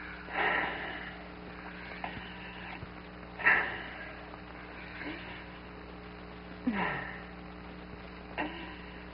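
Laboured, wheezing breaths of a man in an iron lung that is being pumped by hand, one about every three seconds. One breath ends in a falling groan. A steady mains hum runs underneath.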